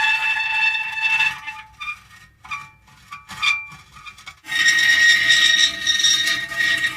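Metal creaking and squealing: a long, high squeal at the start, a quieter stretch with a few short squeaks in the middle, then another sustained squeal from about two-thirds of the way in.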